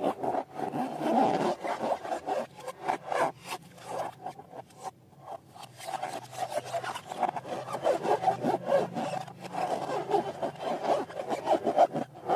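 Slime being worked by hand, heard as steady rubbing and squishing with many small crackling clicks and a short lull about five seconds in.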